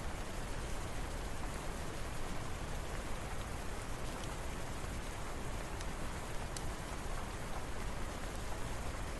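Steady rainfall, an even hiss of rain on a surface, with a few faint sharp ticks of single drops.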